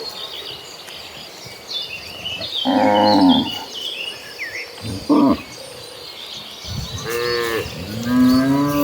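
Cows mooing, four separate calls: a short one about three seconds in, a brief one near five seconds, then two more near the end, the last a long moo that rises and falls in pitch.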